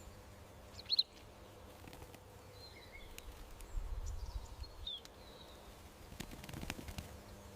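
Backyard garden ambience with a few short, high bird chirps, the loudest about a second in and fainter ones in the middle, over a steady low background noise with a brief low rumble near the middle.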